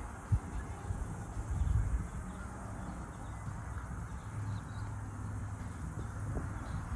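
Handling knocks at a workbench: a sharp low thump shortly after the start and a brief rumbling knock nearly two seconds in, over a steady low hum.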